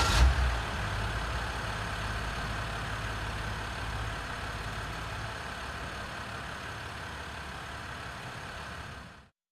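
A 2019 RAM Heavy Duty pickup's engine idling just after starting up, its level easing down slowly, then cutting off abruptly near the end.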